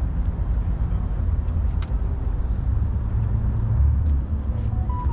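A car engine running with a low, steady rumble that swells briefly a little before four seconds in.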